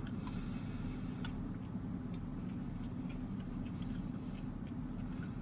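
Steady low hum of an idling car engine, with faint, irregular clicks from chewing a corn dog.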